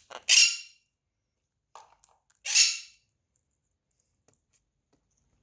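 Quaker parrot giving two loud, shrill squawks, one near the start and one about two and a half seconds in.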